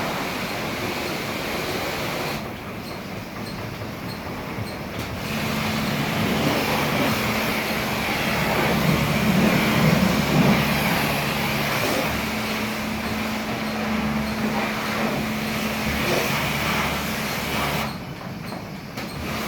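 Automatic car wash machinery running: a steady two-tone motor hum under a broad hiss. It eases off for a couple of seconds about two and a half seconds in and again near the end.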